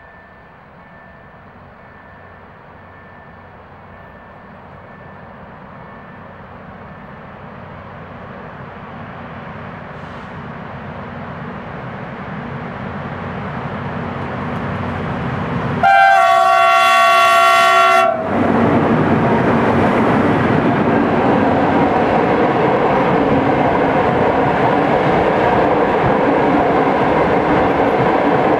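A freight train hauled by two 15D/A diesel locomotives approaches, its engine and rail noise swelling steadily. About 16 seconds in, the locomotive's horn sounds a blast of several tones for about two seconds. The hopper wagons then roll past close by with a loud, steady rumble of wheels on the rails.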